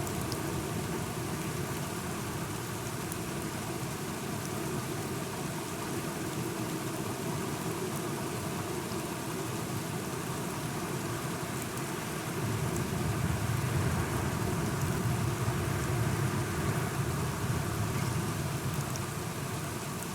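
Steady rain falling, a constant hiss with scattered drop ticks. About twelve seconds in, a low rumble of distant thunder swells up and rolls on for several seconds before easing.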